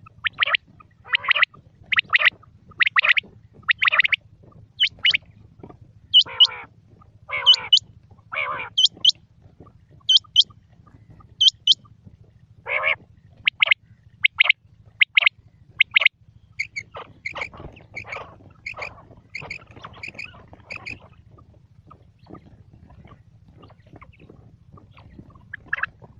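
Quail calling: short, sharp notes repeated about once a second, some sweeping up in pitch. The calls stop for several seconds near the end and then start again. A faint low hum runs underneath.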